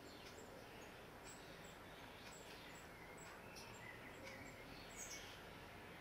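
Faint, thin high-pitched bird chirps repeating two or three times a second over a quiet background hiss, with a few lower, short chirps in the middle.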